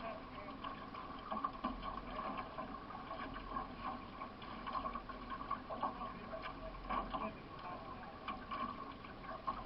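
Water splashing around a solo racing canoe under way, with short paddle-stroke splashes coming about once a second.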